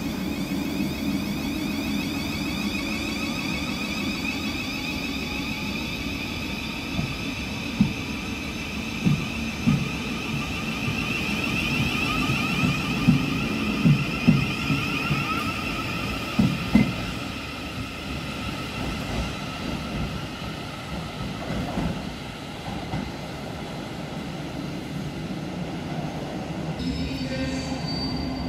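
Thameslink Class 700 electric train pulling away from the platform. Its traction motors whine in several tones that rise slowly in pitch as it gathers speed, with a run of sharp clicks from the wheels over rail joints between about 7 and 17 seconds in. The whine then fades as the train leaves.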